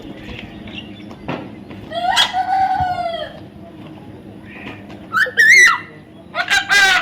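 Birds calling: a long arching call about two seconds in, then a warbling call and a quick trilling call near the end.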